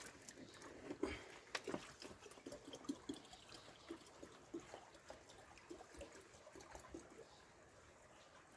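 Faint trickle of spring water with small irregular plops and drips as a container is filled at the spring.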